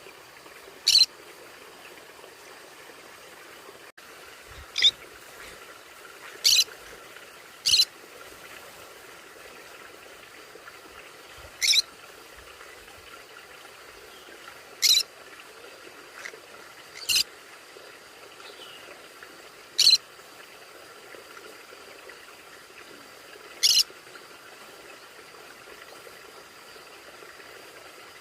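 A conure giving short, sharp, high-pitched calls, about nine single calls spaced irregularly a few seconds apart.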